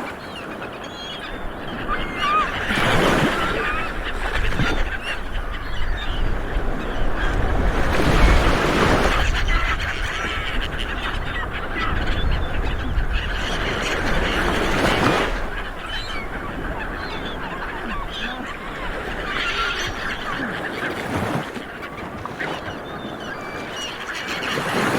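A flock of seabirds calling continuously, many harsh honking calls overlapping, with a few louder rushes of noise in between.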